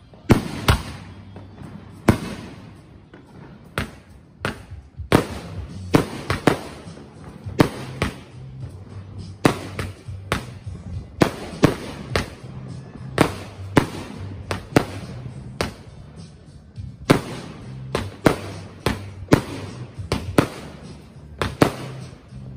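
Consumer firework cake firing a rapid string of shots and aerial bursts: sharp bangs, roughly one to two a second, with a brief lull a little after the middle.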